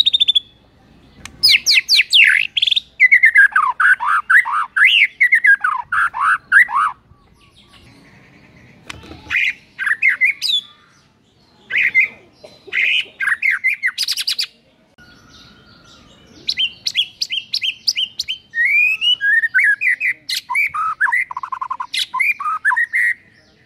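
White-rumped shama (murai batu) singing in loud bursts of rapid, varied whistled phrases with short pauses between them, including a long run of falling whistles near the start. It is running through its 'isian', the repertoire of songs it has learned by mimicry.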